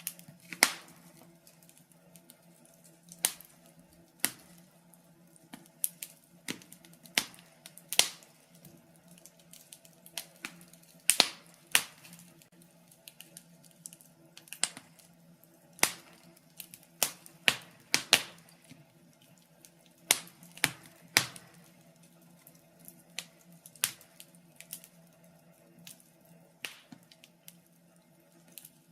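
Wood fire crackling: burning logs giving off sharp irregular pops and snaps, one or two a second, over a faint steady low hum.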